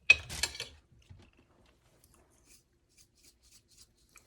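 Handling and eating avocado: a short scraping rustle, then a few faint scattered ticks.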